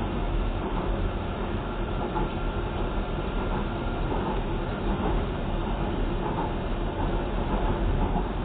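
Docklands Light Railway train running along the track, heard from inside the carriage: steady running noise of wheels on rails, with a faint high tone that fades out about halfway through.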